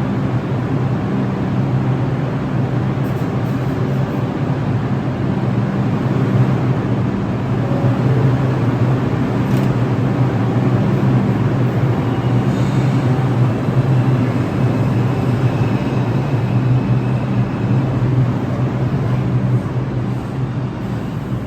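New York City Subway train, a Bombardier R142, rumbling steadily through the underground station, with a faint high whine about halfway through.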